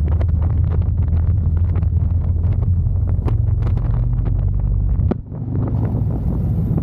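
Harley-Davidson V-twin motorcycle engine running under way, with wind buffeting and crackling on the microphone. The engine sound dips briefly about five seconds in, and a high wind hiss comes in after it.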